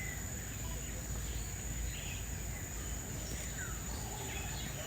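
Aviary ambience: several birds give scattered faint chirps and one short falling whistle over a steady background hiss, with a constant high-pitched whine running through.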